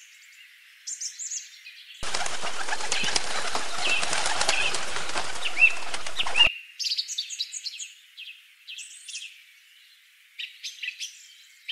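Small birds chirping and twittering in high, short calls, joined about two seconds in by a flock of doves flapping their wings loudly for about four seconds, which cuts off abruptly.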